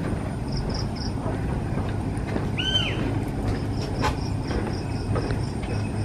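Morning birds calling over a steady low rumble. A high note is repeated three times early on, an arched call comes once near the middle, and the high note then repeats at about four a second through the second half.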